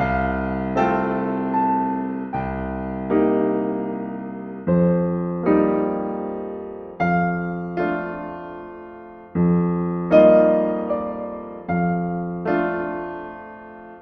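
Slow, gentle solo piano music: soft chords struck in pairs, each left to ring and fade, a new pair about every two and a half seconds.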